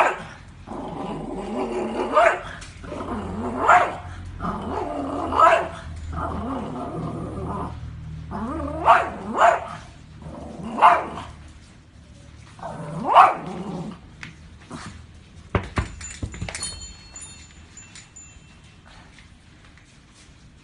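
A dog barking repeatedly, with growling between the barks. The barking stops about two-thirds of the way through, and after a single thump it goes quiet.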